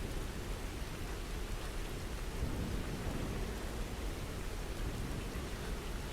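Steady rain falling, with a low rumble of thunder that swells about two and a half seconds in.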